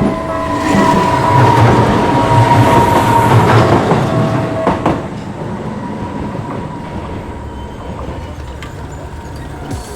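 Tokyu Setagaya Line train passing over a level crossing. The wheels run loudly for the first five seconds with a high whine over them, then the sound dies down to a weaker rumble as the train moves away.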